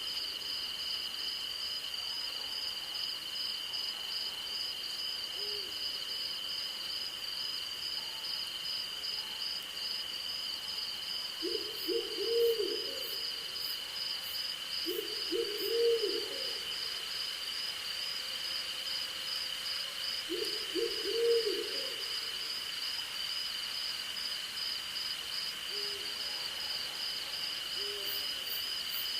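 An owl hooting: three loud groups of several short, low hoots a few seconds apart, with a few fainter single hoots before and after. Underneath runs a steady night chorus of crickets and other insects, one a continuous high trill and one a rapid pulsing chirp.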